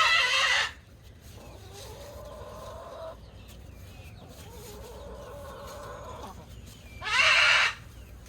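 Chickens calling: a loud drawn-out call right at the start and another near the end, with softer long calls in between.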